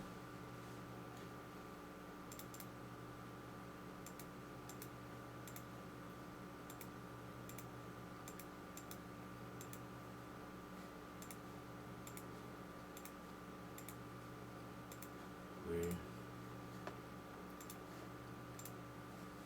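Faint steady electrical hum of several fixed tones, with light clicks at irregular intervals of about a second. A short low buzz stands out about sixteen seconds in.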